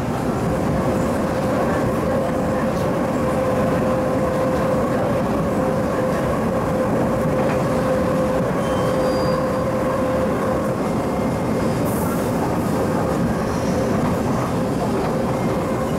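MTR East Rail line refurbished MLR electric multiple unit running at a steady speed: wheel-on-rail rumble with a steady whine from the traction motors, the whine growing fainter after about ten seconds.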